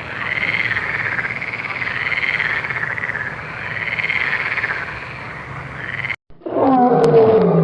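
A chorus of frogs calling, a dense pulsing croaking that stops abruptly about six seconds in. After a brief gap a loud animal roar begins, falling in pitch, near the end.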